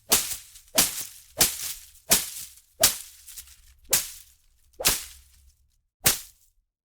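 Plants and foliage being whipped and struck in a series of about eight sharp hits, each fading away within about half a second. The hits come roughly every two-thirds of a second at first, then further apart.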